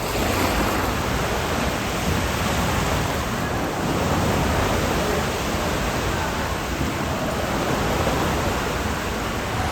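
Cruise ship pool water sloshing and splashing in a gale, under a steady rushing of strong wind buffeting the microphone.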